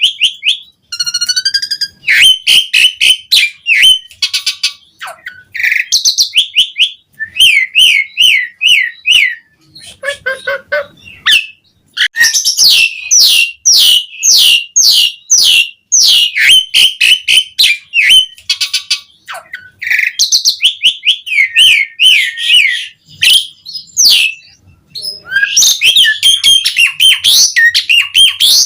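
Asian pied starling (jalak suren) in full song: a dense, loud stream of quick chirps, clear whistles and harsh, sweeping notes, broken by a few short pauses.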